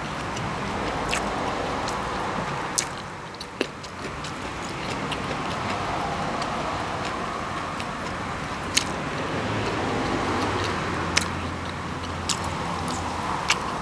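A person chewing a mouthful of food, with scattered sharp wet mouth clicks and smacks at uneven intervals. Underneath is a steady background rush that swells and fades.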